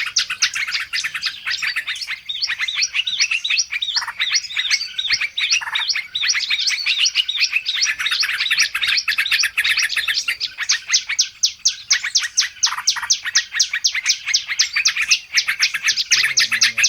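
A dense chorus of small songbirds chirping rapidly and without pause, many short calls a second: a bird-lure recording of noisy small birds, used to draw wild birds in.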